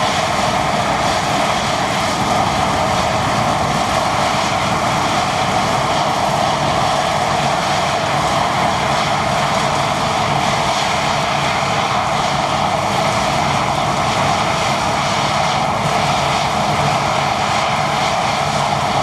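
Deutz-Fahr Topliner 4090 HTS combine harvester running at a steady working drone, engine and threshing gear under load, with no change in pitch or level.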